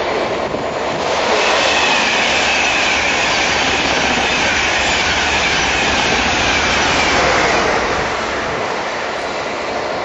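Passenger train passing at speed alongside the platform: a rush of wheel and air noise that builds about a second in and eases off near the end, with a faint high whine slowly falling in pitch.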